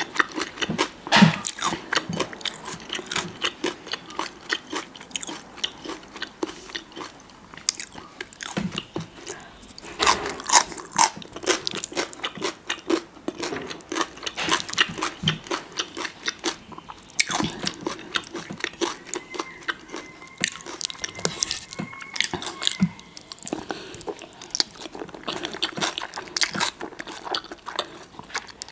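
Close-miked eating sounds: chewing and biting into food, a dense stream of crunchy clicks broken by a few short lulls.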